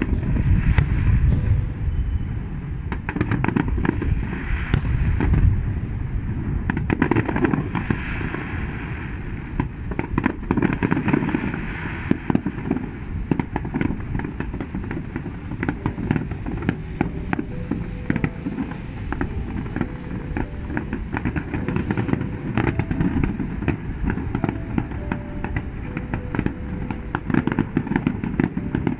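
Aerial fireworks display: a continuous barrage of bangs and crackling bursts with a deep rumble, loudest in the first few seconds.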